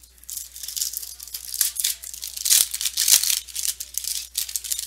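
Crinkling and rustling of foil trading-card pack wrappers and cards being handled as the next pack is opened, with a couple of sharper clicks about midway through.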